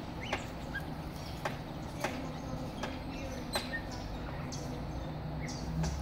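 Birds in an aviary giving scattered brief chirps among sharp short clicks, with a low steady hum underneath.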